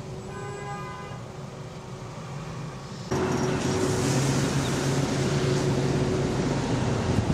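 A car driving in traffic: steady engine hum and road noise, with a brief faint high tone near the start. About three seconds in, the road and wind noise jumps suddenly louder and stays there.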